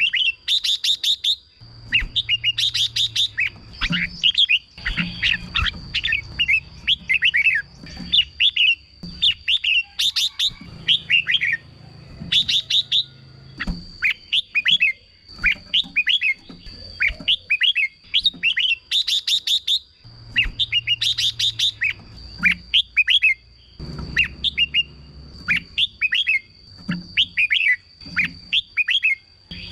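Red-whiskered bulbul singing: quick, bubbling whistled phrases repeated over and over with short gaps, with several sharper, harsher notes among them.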